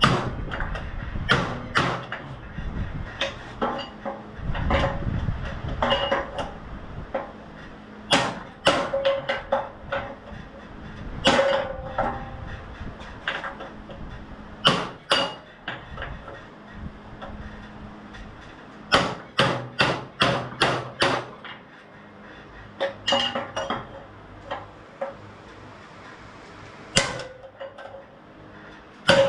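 A hammer striking metal, knocking a stuck keyed part loose from a go-kart shaft. The blows come in irregular clusters with short pauses, several of them ringing briefly.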